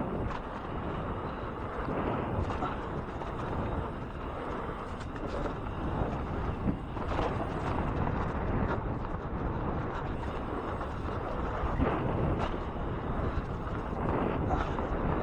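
2014 Transition Covert 26er mountain bike riding a dirt jump line: a continuous rush of wind and tyre noise, with knocks and clatters from the bike now and then.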